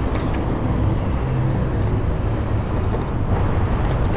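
Steady road traffic noise mixed with wind rushing over the microphone of a moving bicycle.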